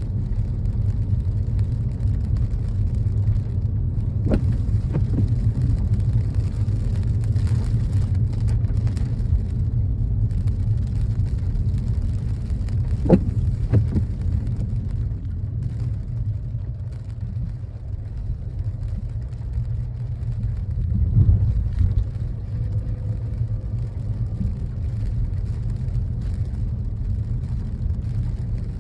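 Car driving: a steady low rumble of engine and road noise, with a few brief knocks.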